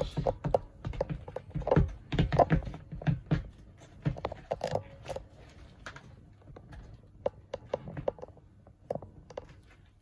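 Sneakers pressing and stepping into a cake: irregular soft thuds and clicks, busy and louder for the first few seconds, then sparser and fainter.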